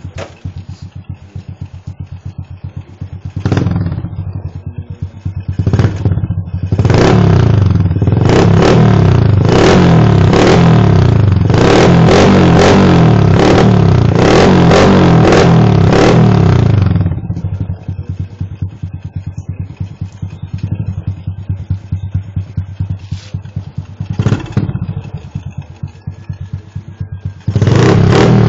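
Honda XRM RS125's single-cylinder four-stroke engine breathing through an open-pipe HGM exhaust: it idles with a fast pulsing beat, is blipped twice, held at high revs for about nine seconds, drops back to idle, then is revved again near the end.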